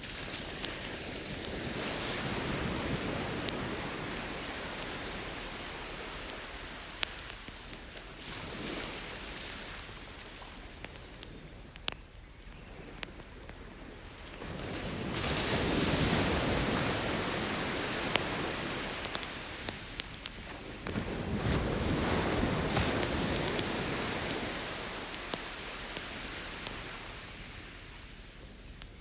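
Ocean surf washing ashore in slow swells, about four surges, the loudest midway, with scattered sharp crackles and pops from a campfire burning on the beach.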